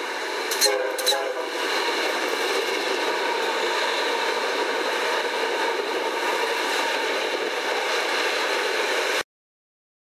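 Coaster commuter train passing a station platform: a steady rush and rumble of the train going by, with two brief sharp sounds about half a second and a second in. The sound cuts off suddenly near the end.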